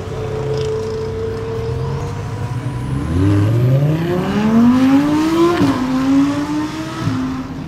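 A car engine revving: its pitch climbs steadily for about two and a half seconds, drops sharply, holds high for a moment, then falls away near the end.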